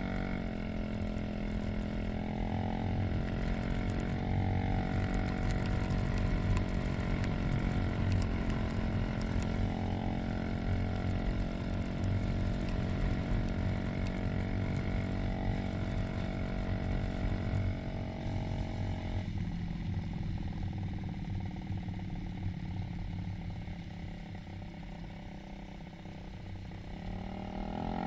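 Motorcycle engine running steadily under way; its pitch drops about two-thirds of the way through as the bike eases off, then rises again near the end.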